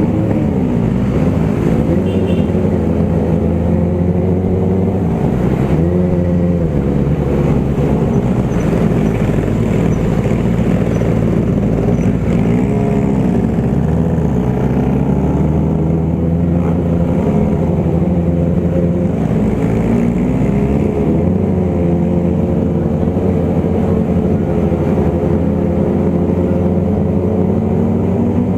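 Motorcycle engines under way on the road, revving up and easing off again and again as the bikes ride along, over a steady low rumble.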